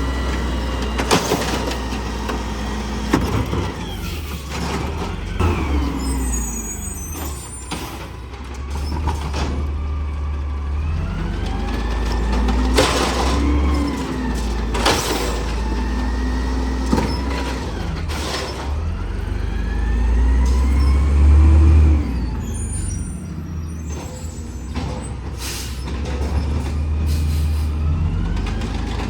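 Garbage truck running, its engine rising and falling in pitch several times, with a heavy low rumble and sharp bangs now and then.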